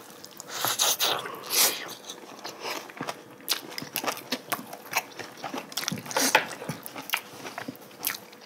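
Close-miked chewing and biting of braised oxtail meat with seasoned chives: wet mouth sounds and irregular sharp clicks, loudest about a second in.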